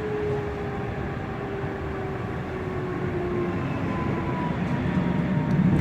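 Frankfurt U-Bahn light-rail train running, heard from inside the car: wheel and track rumble under a thin electric motor whine that slowly falls in pitch, with the rumble growing louder near the end.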